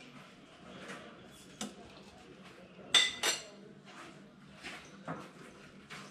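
Metal spoon stirring a drink in a cup, with light clinks against its sides and two sharper clinks about three seconds in.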